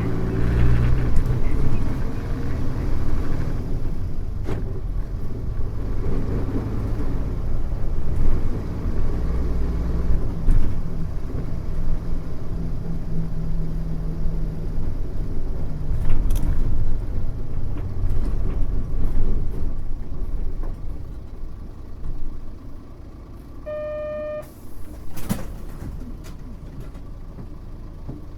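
Interior running sound of a Mitsubishi Fuso U-MK618J route bus: the diesel engine pulls steadily under load, then its note drops away about 21 seconds in. Near the end a short electronic beep sounds, followed a second later by a brief sharp noise.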